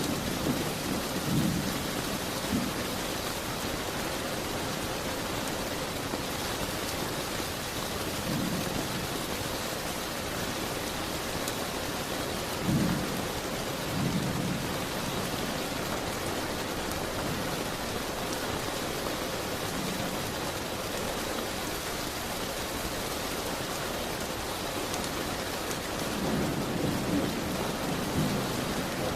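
Steady rain, with several brief low rumbles rising out of it at the start, around the middle and near the end.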